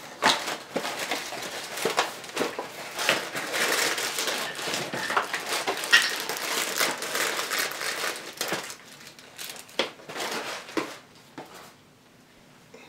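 Cereal boxes being opened: cardboard flaps pulled apart and the plastic inner bags crinkling and rustling in a dense, irregular stream of crackles and clicks, thinning out and growing quieter after about nine seconds.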